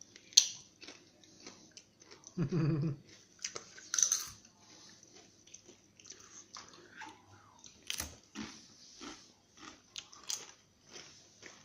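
Doritos tortilla chips being bitten and chewed: a long, irregular string of sharp crunches, with a brief low hum from a voice about two and a half seconds in.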